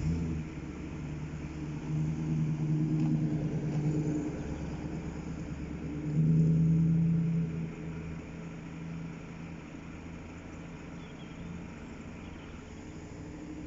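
A vehicle engine running past, a low steady engine note that swells twice, about two seconds in and more loudly about six seconds in, then fades away.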